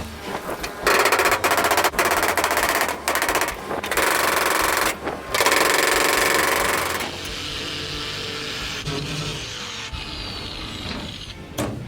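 Stick (MMA) arc welding on the steel roof of a Dutch barge: the arc crackles rapidly in several short runs of about a second each, the last one longer. About seven seconds in it gives way to a quieter steady background.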